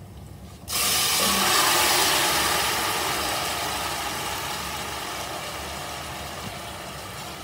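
Pressure-cooked beef and its cooking liquid hitting hot coconut oil in a frying pan: a sudden loud sizzle about a second in that slowly dies down.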